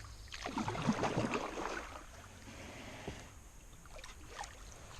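Kayak paddle dipping and splashing in lake water: a run of strokes in the first couple of seconds, then fainter splashes and drips, with another stroke near the end.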